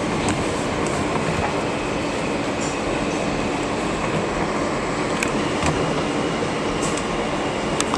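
R160B subway train running along the track, heard from the front cab: a steady rumble with a few sharp clicks in the second half, and a steady high whine that sets in about five seconds in.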